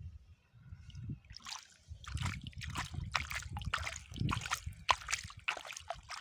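Sand being scooped and poured by a small toy JCB's bucket: irregular gritty rustling and pattering bursts, starting about a second and a half in, over a low rumble.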